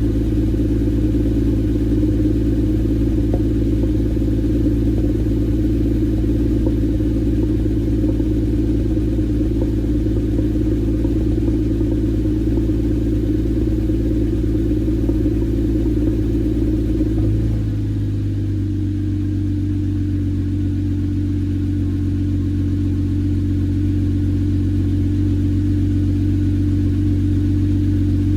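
Porsche Cayman S 3.4-litre flat-six with a Borla exhaust idling after a cold start, a steady exhaust note with no revs. About seventeen seconds in, the note changes and eases slightly as the idle settles.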